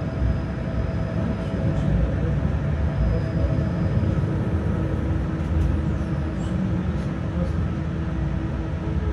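Tram running between stops, heard from inside the car: a steady low rumble of wheels on rail with a faint steady electrical hum and a few light clicks.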